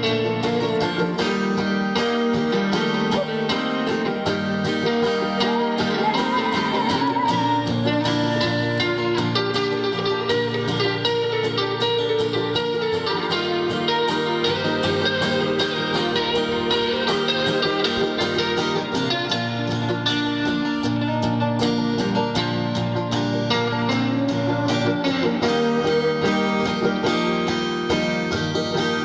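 Live Americana band playing an instrumental passage, with guitar to the fore.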